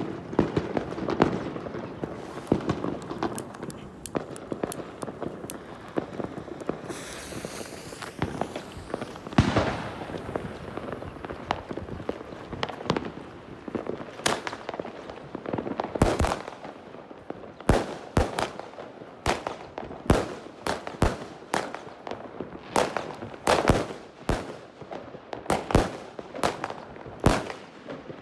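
Hanssons 'Heavy Thunder' 36-shot fireworks cake (20 mm max calibre) firing a long sequence of shots: sharp launch thumps and aerial bursts. The shots are irregular at first, then come as loud reports about every half second to a second in the second half.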